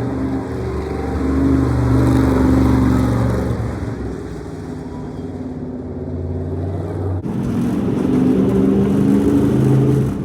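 Monster truck engine running and revving, its pitch rising and falling. About seven seconds in the sound cuts abruptly to another stretch of engine noise.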